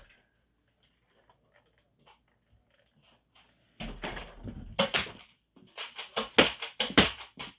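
Near silence for about four seconds, then a quick irregular run of sharp clacks and thuds from Nerf blasters being fired and primed, with foam darts striking.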